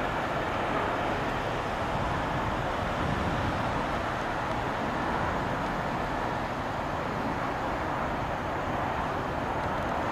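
Freight train cars rolling past on the rails, a steady rumble and rush of wheels without distinct clicks.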